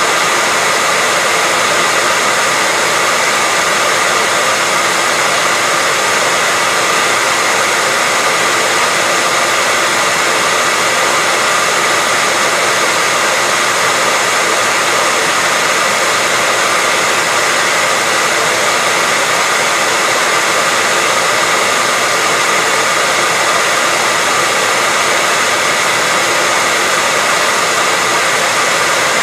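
Hair dryer running steadily: a constant, even rush of air with a faint whine from its fan motor, unbroken throughout.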